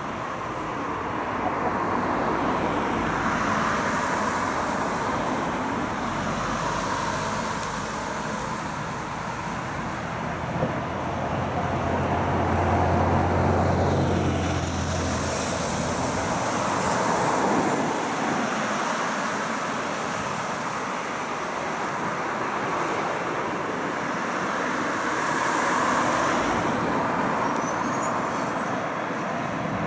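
Outdoor traffic noise from passing vehicles, swelling and fading several times. A low hum runs through the middle, and a high whine drops in pitch about halfway through as something passes.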